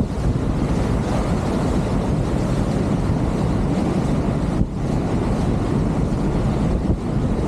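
Strong wind buffeting the microphone over the steady rush of water along a sailing catamaran's hulls at speed, with a brief lull about four and a half seconds in.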